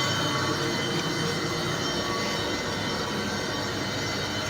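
Steady mechanical running noise with a few faint steady tones above it, without breaks.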